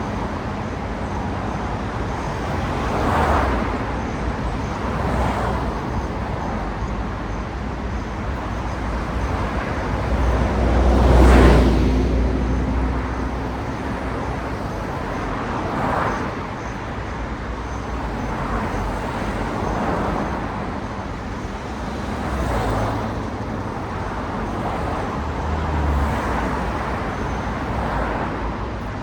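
Road traffic: cars passing one after another over a steady background of traffic noise, each a swell and fade of tyre and engine sound. The loudest pass-by, with a deep rumble, comes about eleven seconds in.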